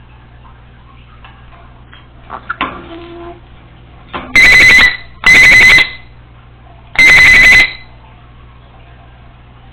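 Congo African grey parrot mimicking an electronic alarm: three very loud warbling beeps, each about half a second long, starting about four seconds in, after a few soft whistles and clicks.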